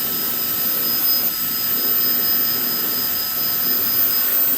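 GAMA Italy IQ Perfetto hair dryer running on a raised heat setting: a steady rush of air with a thin high whine over it. It cuts off suddenly at the very end.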